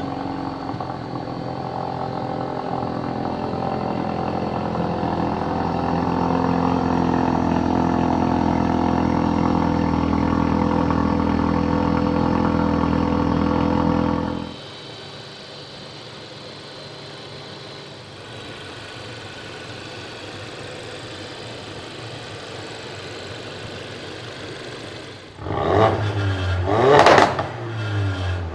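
Ford Focus RS's 2.3-litre turbocharged four-cylinder engine idling steadily through its exhaust. At about 14 seconds it drops suddenly to a much quieter idle, and near the end it is blipped in two quick revs.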